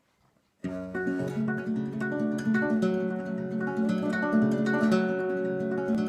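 Acoustic guitar introduction to a song: plucked and strummed chords that come in sharply about half a second in and run on steadily.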